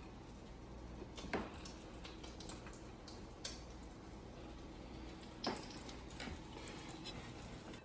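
Chicken cutlets frying faintly in butter and oil in a skillet, a low sizzle with a few sharp clicks, likely the cutlets or a utensil against the pan.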